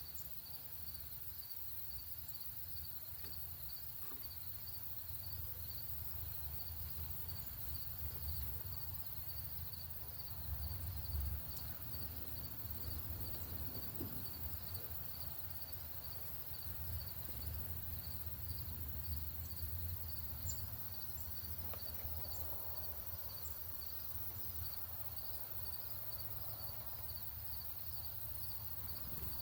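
An insect chirping steadily, a high-pitched pulse repeated about twice a second without a break, over a low steady rumble. A few brief high chips come in the last third.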